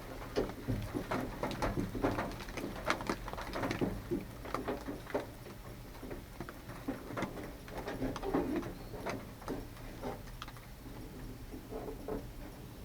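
Irregular light clicks, taps and rattles of small metal and plastic parts being handled while a truck's outside door handle and its linkage are fitted.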